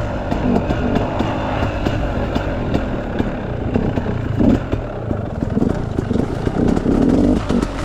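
Enduro dirt bike engine running under way, its pitch rising and falling with the throttle, with frequent knocks and rattles from riding over rough ground.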